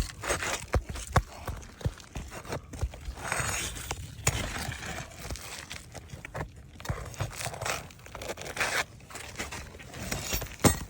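Flat pry bar working under an old organic 3-tab asphalt shingle, with scraping, tearing and crackling as the shingle is worked loose from its nails. Many sharp clicks and knocks run through it.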